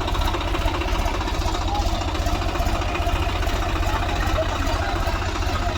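Diesel tractor engine running steadily with a fast, even chugging.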